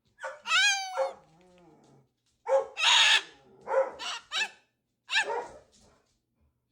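Excited dog-like barking: five or so short, loud barks and yelps in quick bursts, the first a long pitched yelp that rises and falls.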